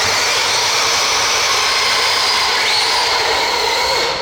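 Radio-controlled pulling tractor's motors whining hard under load during a pull, a steady high-pitched whine with several tones held level. The whine cuts off abruptly at the end.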